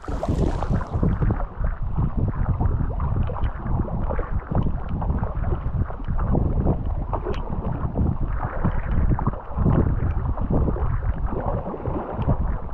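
Wind rumbling and buffeting on the microphone, gusting up and down, over water sounds from a small rowing boat on a river.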